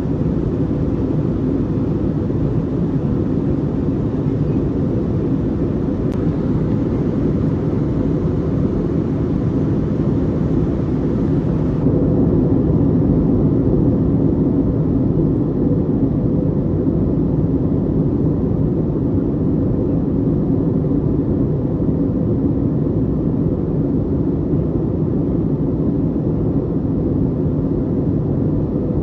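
Airbus airliner cabin noise in flight: a steady, loud jet-engine and airflow drone with a faint steady hum. About twelve seconds in the hiss above it thins.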